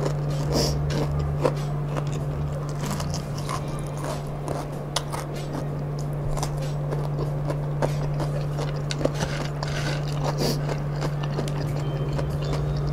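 Close-up eating sounds: chewing crunchy fried kremes crumbs and cucumber, with scattered crunches and wet mouth clicks, over a steady low hum.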